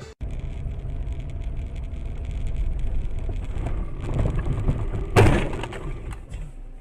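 Car driving with steady low road and engine rumble, as heard from a dashcam, then a sudden loud crash impact a little after five seconds in.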